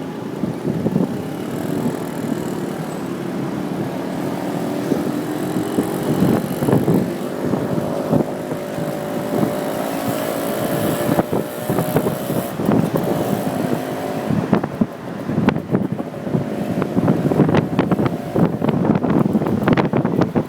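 Motorcycle taxi's engine running in traffic, its pitch climbing slowly for about ten seconds as it speeds up, with road noise and irregular knocks and rattles in the second half.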